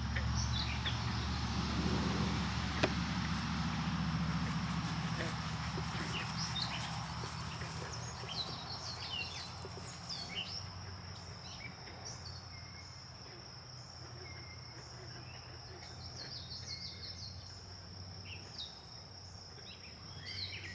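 Insects trilling in one steady high-pitched drone, with many short chirps scattered over it. A low rumble in the first few seconds fades away.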